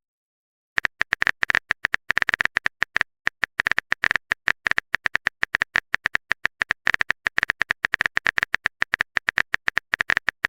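Typing sound effect: quick, irregular keyboard clicks, several a second, starting just under a second in.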